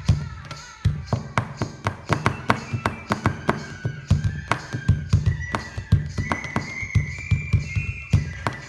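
Hands drumming a rhythm on a tabletop, deep thumps and sharp taps a few times a second, picking up again after a short pause about a second in, with a sustained melody line over the beat.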